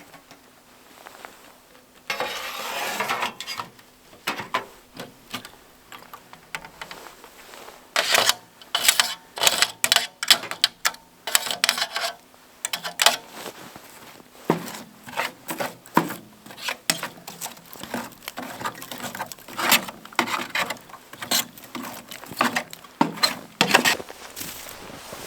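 Tent takedown gear being handled: a short rustle about two seconds in, then a long, irregular run of sharp clicks and knocks.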